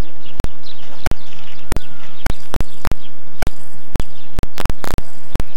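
Birds chirping in short falling calls over a loud, steady hiss, broken by frequent sharp clicks at irregular intervals.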